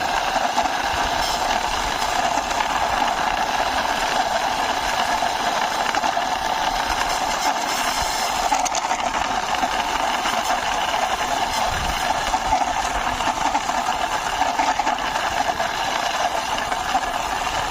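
Toy car's plastic wheels rolling as it is pushed by hand, a steady whirring rattle.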